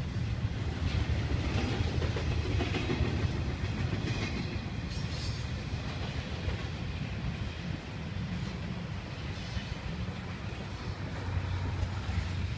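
Intermodal freight train of container well cars rolling past: a steady rumble of steel wheels on rail.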